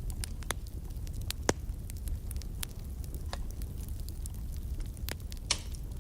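Wood fire crackling in a fireplace: irregular sharp pops and snaps over a low steady rumble of the flames, the loudest pops about a second and a half in and near the end.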